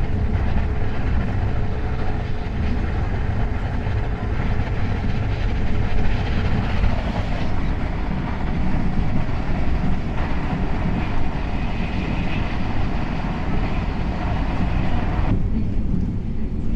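KTX high-speed train running along the track: a steady low rumble with wheel and rail noise over it. About fifteen seconds in, the higher hiss drops away abruptly while the low rumble goes on.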